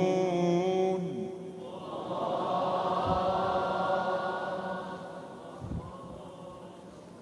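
A man's melodic Quran recitation holds the drawn-out last note of a verse, ending about a second in. A softer, long held vocal tone follows and slowly fades.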